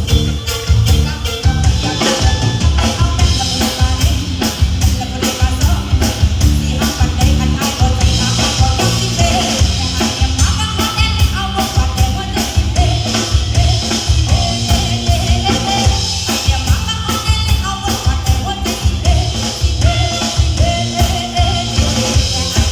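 Live band playing amplified music: a drum kit keeping a steady beat under bass and other instruments, with a singing voice.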